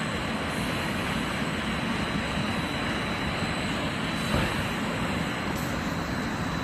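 Non-woven wadding felt production machinery running: a steady, even mechanical drone with a thin, constant high whine on top.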